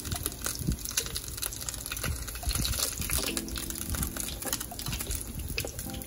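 Dumplings frying in hot oil in a nonstick frying pan: a steady sizzle full of crackles and pops, with occasional light clicks of a metal fork against the pan as the dumplings are turned.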